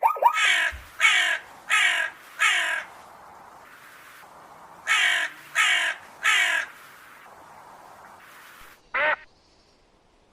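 Crow cawing: four harsh caws in a row, a pause of about two seconds, then three more, and one short call near the end.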